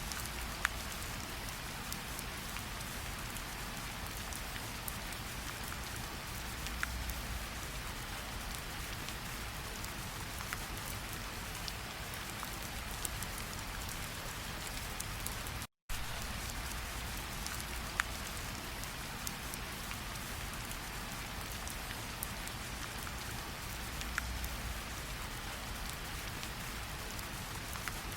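Steady rain falling, with now and then a single drop ticking out clearly above the patter. The sound cuts out completely for an instant about halfway through.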